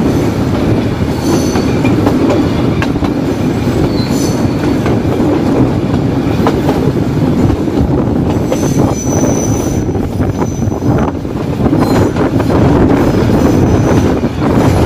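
Nilgiri Mountain Railway train running: a steady loud rumble of wheels on rail, with a high wheel squeal breaking in several times, the longest about nine seconds in.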